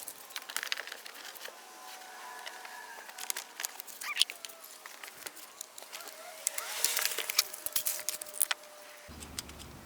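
Scattered clicks, knocks and light rattles of items being handled and moved about in a car trunk, with a faint held tone in the background.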